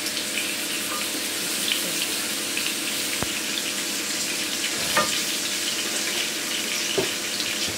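Diced carrots sizzling steadily in hot oil in a nonstick wok, with a few light knocks of a wooden spatula against the pan.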